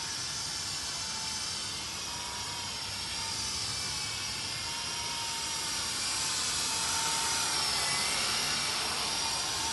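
Small electric motors of a SYMA Chinook RC toy helicopter, front and rear, whining steadily in flight. The pitch wavers a little as the throttle is worked, and the whine grows louder about six seconds in.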